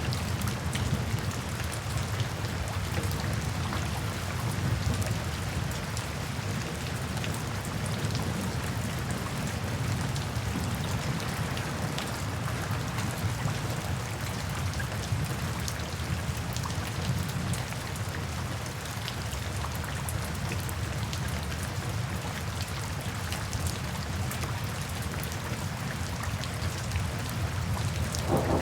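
Steady rain falling, with many scattered sharp ticks of drops. A roll of thunder starts to rumble right at the end.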